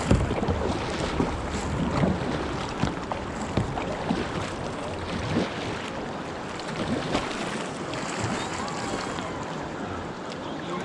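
River water rushing around a kayak, with scattered splashes and wind buffeting the microphone.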